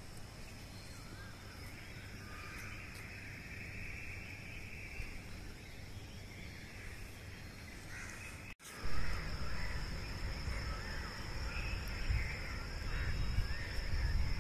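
Birds calling over the city at dawn, the Asian koel among them, in many short wavering calls. About two-thirds through, the sound drops out for a moment and a louder low rumble joins the calls.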